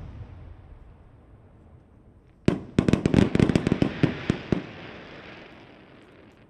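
Aerial fireworks: the echo of a large shell burst rolls away, then about two and a half seconds in comes a rapid string of a dozen or so sharp bangs over about two seconds, which echo and fade.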